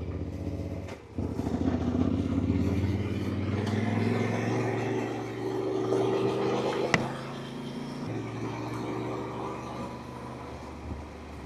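Yamaha Ténéré 700's parallel-twin engine running under way. It dips briefly about a second in, like a gear change, then the revs rise for several seconds. There is a sharp click near the middle, and it eases to a lower, quieter note after about eight seconds.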